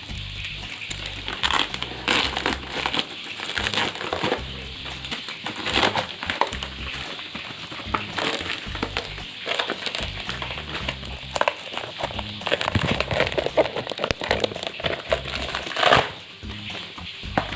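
Plastic packing wrap being handled and crumpled by hand, crinkling in irregular bursts, the loudest near the end, over background music.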